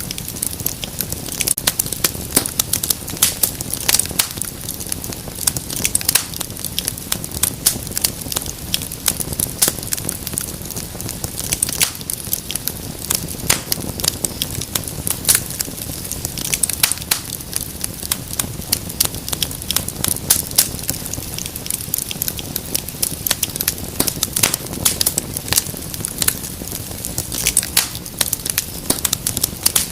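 Wood fire crackling steadily, with frequent sharp pops and snaps over a low rumble of burning.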